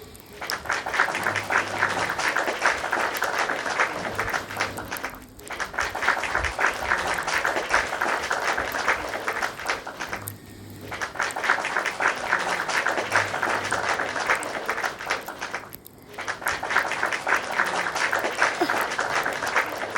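Popping candy in a fried-egg jelly sweet crackling, a dense, rapid fizz of tiny pops that breaks off briefly three times.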